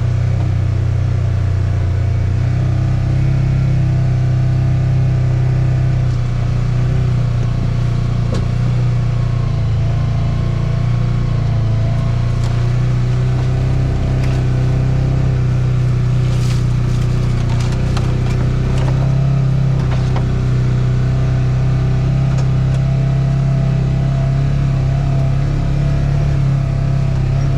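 A motor vehicle's engine running steadily while driving, with road noise, heard from inside the vehicle; a few light clicks in the middle.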